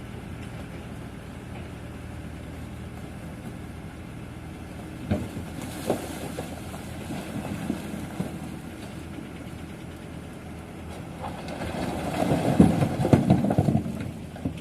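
Heavy construction machine's diesel engine running steadily, with a couple of sharp knocks about five and six seconds in and a louder burst of clattering and knocking near the end.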